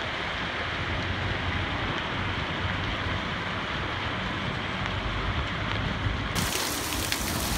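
Heavy rain falling on a city street, a steady hiss with a low rumble of traffic beneath it. A little over six seconds in, the rain turns brighter and closer, with scattered drops ticking.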